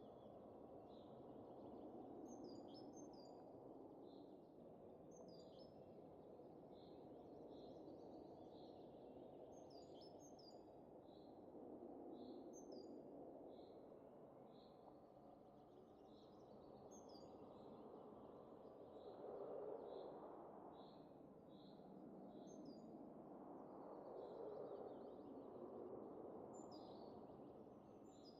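Faint soft wind rushing and swelling in slow gusts, with small birds chirping in short high notes over it throughout.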